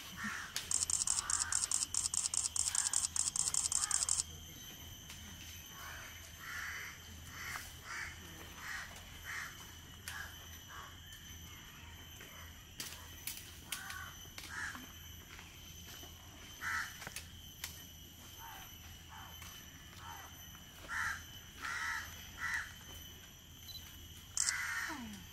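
Short harsh bird calls repeating every second or so over a steady high insect drone. A loud, fast run of high ticking lasts for the first few seconds and stops abruptly.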